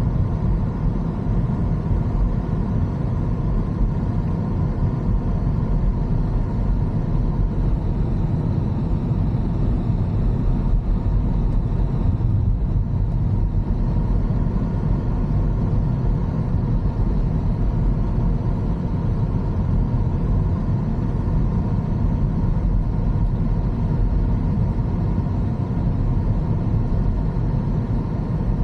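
A car driving along a road: a steady, even rumble of engine and road noise.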